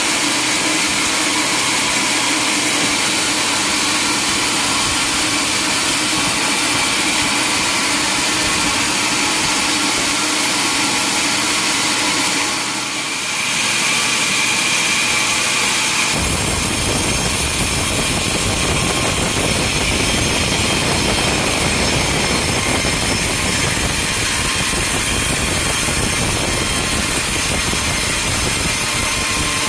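Sawmill machinery running: a steady mechanical noise with a high whining tone. A little over halfway through it changes abruptly to a fuller, rougher, deeper noise.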